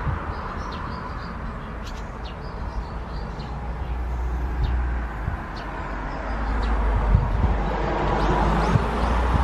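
Small birds chirping in short, repeated high notes over a steady rushing outdoor background, which grows louder in the second half.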